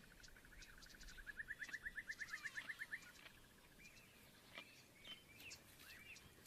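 Faint wild bird calls. A rapid trill of quick repeated notes swells and rises slightly in pitch, then stops about three seconds in. It is followed by scattered short chirps.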